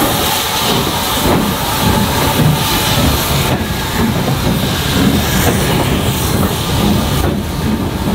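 Steam-hauled train running: a continuous loud rumble and hiss with a rhythmic rail clatter.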